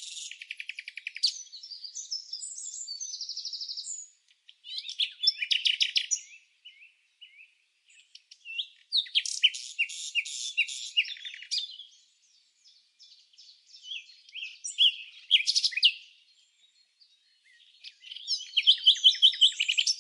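Birds chirping and singing in bursts of rapid, high chirps and trills a few seconds long, separated by short silent gaps with no background noise.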